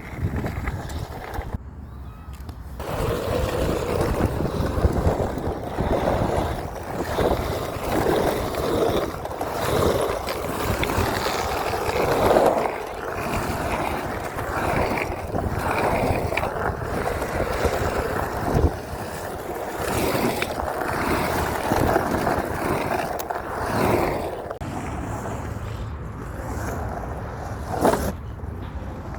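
Surfskate wheels rolling over pavement: a steady rumble that swells and fades every second or two as the board is carved.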